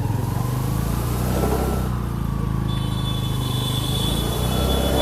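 Motorcycle engine running steadily while driving an electric alternator under test, with a faint whine over it; a high steady tone comes in a little over halfway through.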